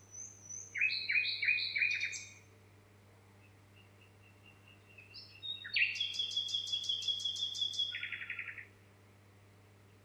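A songbird singing two phrases. The first, about a second in, is a quick run of repeated down-slurred notes. The second starts near six seconds and is a longer, fast trill that ends in a buzzy trill, all over a faint steady low hum.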